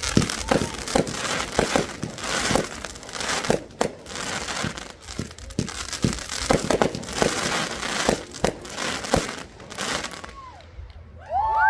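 Fireworks going off: a dense, irregular run of pops and crackles that thins out about ten seconds in.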